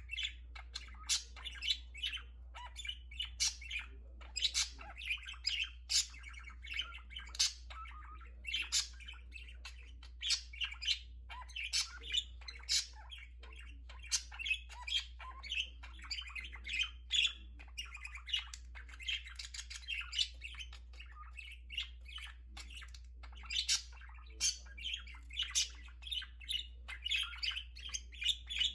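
Pet budgerigars chattering with a rapid run of short chirps and squawks, over a steady low hum.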